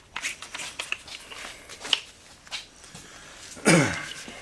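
Light handling noises, scattered small clicks and rustles, then near the end a short vocal sound that falls in pitch.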